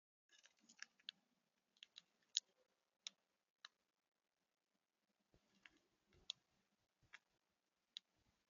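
Faint, irregular sharp clicks and taps at a bird feeder, the sound of feeding at the feeder: about a dozen over several seconds, the loudest a little over two seconds in.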